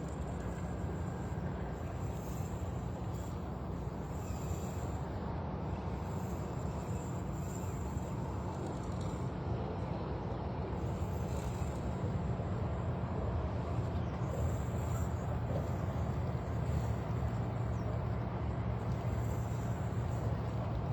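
A steady low mechanical hum with a noisy rush over it, growing a little louder about halfway through.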